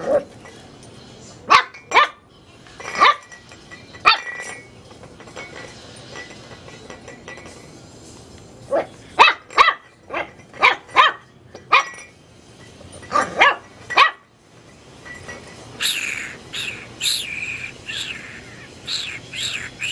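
Chihuahua puppy barking in short, sharp, high barks that come in clusters with pauses between. Near the end the barks turn shriller and come faster.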